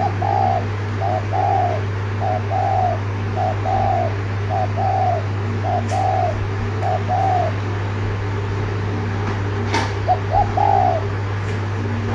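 Spotted dove cooing in its rapid 'thúc gù' pattern, a quick short coo followed by a longer one, repeated about six times, then after a pause again near the end. A steady low hum runs underneath, with a single sharp click just before the last group of coos.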